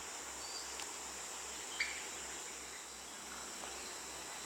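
Insects droning steadily at a high pitch, with a few short chirps over it, the loudest nearly two seconds in.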